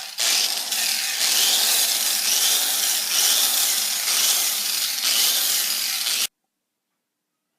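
Handheld power tool buffing a freshly welded stainless steel pipe joint: a loud, steady, hissing grind that breaks off for an instant at the start, then stops abruptly about six seconds in.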